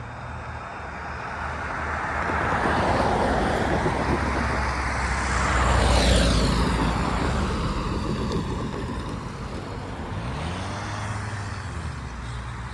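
A road vehicle drives past, growing louder to a peak about six seconds in, its pitch dropping as it passes, then fading away.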